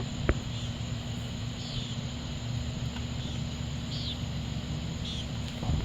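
Insects chirping in short, evenly spaced calls about once a second, over a steady low rumble. Two sharp clicks come right at the start.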